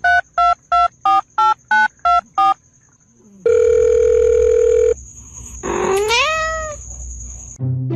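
Telephone keypad tones: eight quick two-note beeps, about three a second. Then a steady tone lasts about a second and a half, and a single cat meow that rises and falls comes near the end.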